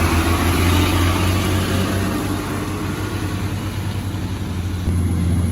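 Heavy diesel engine running steadily with a deep hum. It eases off a little in the middle and picks up again about five seconds in.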